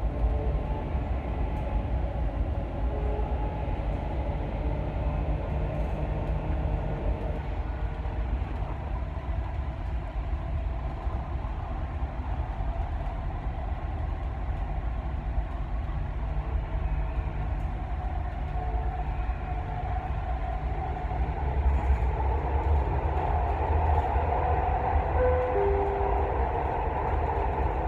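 Dubai Metro electric train running: a steady low rumble with a faint motor whine, growing louder about three-quarters of the way through.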